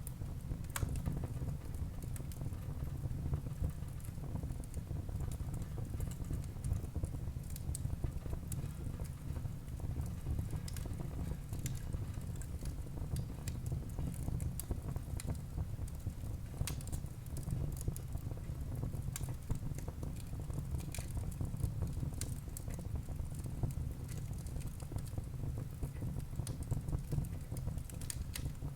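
Wood fire burning in a fireplace hearth: a steady low rumble of flames with frequent, irregular sharp crackles and pops from the burning logs.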